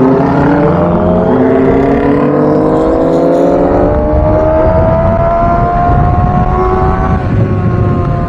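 Kawasaki ZX-25R's 249 cc inline-four engine through a Villain R11 aftermarket exhaust, its revs climbing steadily for about seven seconds, then easing off slightly near the end.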